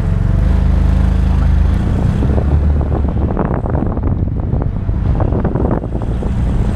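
PATAK Motors open roadster's Yamaha engine driving through a CVT, pulling away and running under load, its pitch holding level for the first two seconds. From about two seconds in, wind buffets the microphone over the engine.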